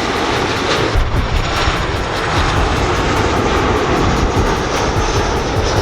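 Airliner on final approach to land, passing low overhead with its engines making a loud, steady rumble.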